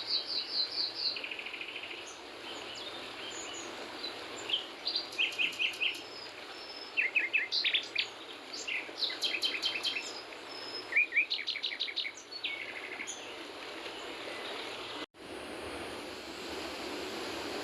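Songbirds singing repeated short, trilled phrases over the steady rush of a mountain stream. The song stops about three-quarters of the way through. After a brief dropout only the stream is heard.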